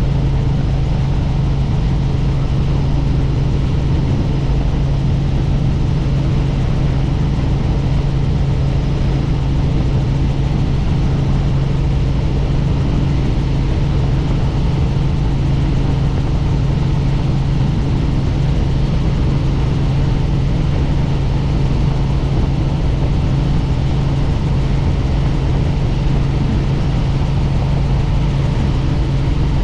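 Helicopter in flight: steady rotor and engine noise, a loud low drone that holds constant without change.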